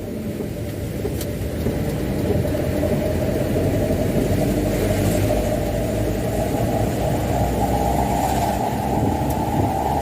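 Mitsubishi Canter 125HD dump truck's diesel engine running under way, a steady low rumble of engine and road noise whose note climbs a little over the last few seconds.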